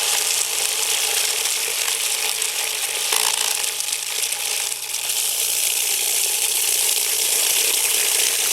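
In-Sink-Erator 3/4 hp garbage disposal running and grinding up a mushroom: a steady motor hum under a continuous hissing grind.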